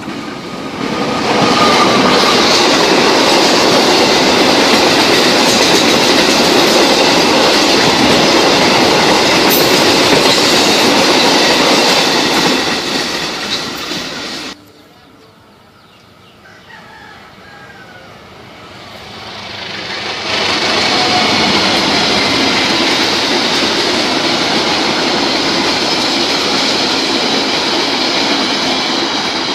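Passenger train rolling past at speed: a steady rumble and clatter of carriage wheels on the rails. About halfway through the sound drops off suddenly to a quieter stretch, then the loud rumble of the passing train returns for the last third.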